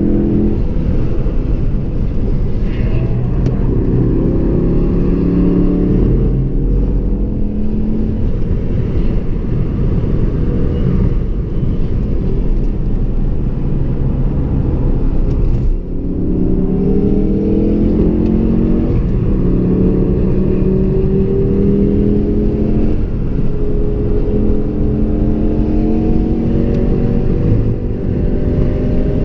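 Ford Focus RS's turbocharged four-cylinder engine under hard acceleration on track, heard from inside the cabin over road and tyre noise. The engine note climbs again and again, with a brief drop about sixteen seconds in.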